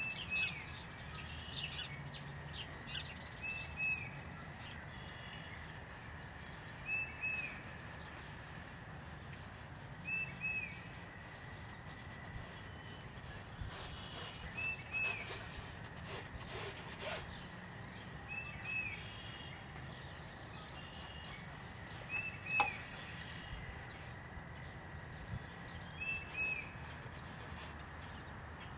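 A bird repeating a short double chirp about every three to four seconds over a steady low outdoor background hum.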